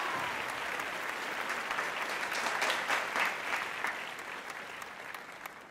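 Crowd applauding, dense clapping that fades away over the last couple of seconds.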